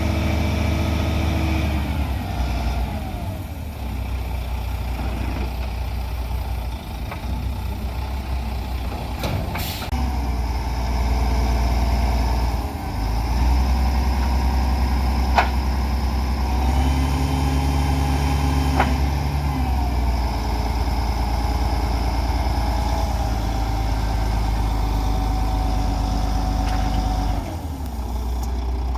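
Heavy truck's Volvo D12 diesel engine running, its tone shifting up and down several times as the engine speed changes, with a couple of sharp short clicks or air releases partway through.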